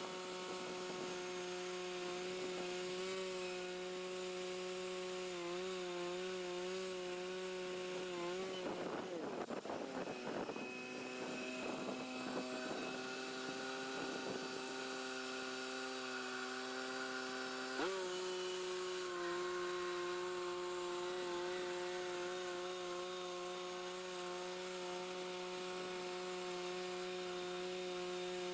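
Portable band sawmill running at a steady speed. About nine seconds in, a rough scraping sound comes in as the blade bites into the log, and the motor's pitch drops under the load. Near eighteen seconds it jumps sharply back up and holds steady again.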